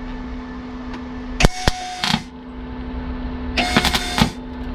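MIG welder laying two short bursts of weld, each under a second, crackling with the wire-feed motor whining, over the machine's steady hum: an attempt to fill a hole in rusty car body steel.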